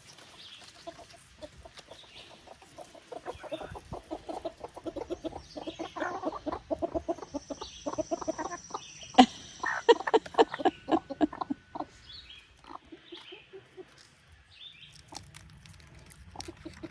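A flock of chickens clucking in quick, busy runs, densest through the middle, with a single sharp click about nine seconds in.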